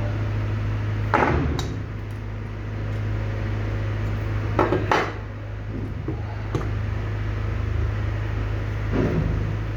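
Small hard metal tools and parts clinking and knocking on a workbench, about six scattered taps, over a steady low hum.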